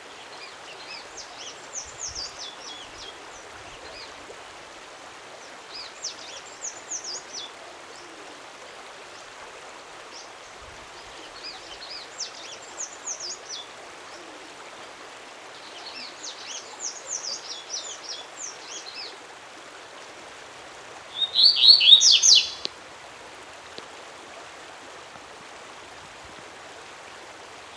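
A native Brazilian songbird singing short phrases of quick, high, falling notes, one about every five seconds, over a steady rushing background like a stream. Near the end comes a much louder, denser burst of song.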